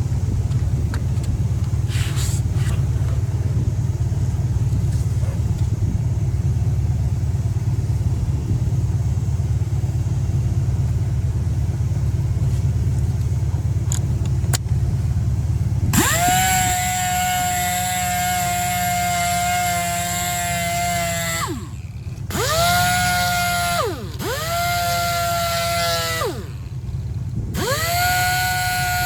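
A low, steady rumble for about the first half. Then a high-speed rotary power tool on the wheel spins up to a high, steady whine, runs for about five seconds and winds down. It is then triggered three more times in shorter runs of a second or two each.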